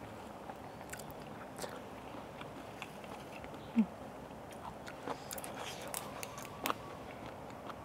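Close-miked eating sounds: soft chewing, wet mouth clicks and smacks, and light rustling of leafy vegetables being handled. About four seconds in there is a single brief, low, pitched hum-like sound.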